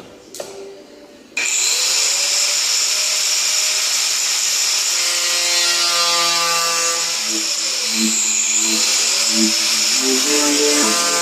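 A power tool starts about a second and a half in and runs steadily with a high whine, cutting the sunroof out of the car's sheet-metal roof. In the second half, lower pitched tones step and bend beneath the whine.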